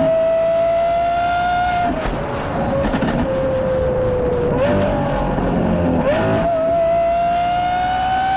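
Lamborghini Aventador SVJ's V12 engine through a Gintani aftermarket exhaust, running hard with a high, steady engine note. The pitch climbs slowly, drops about two seconds in, then steps back up twice and climbs again.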